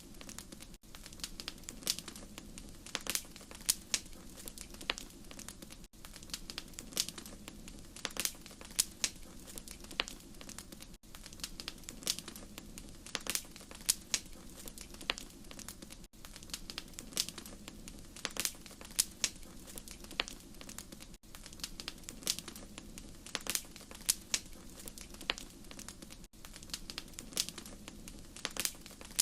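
Wood fire crackling in a fireplace: irregular sharp pops and snaps over a low steady rumble, with a very short dropout about every five seconds.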